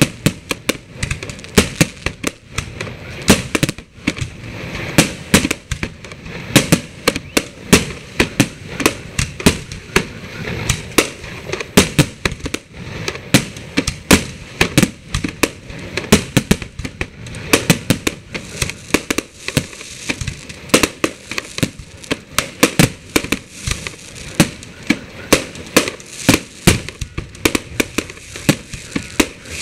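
Aerial fireworks shells launching and bursting in a dense, continuous barrage: irregular sharp bangs, several a second, mixed with crackling.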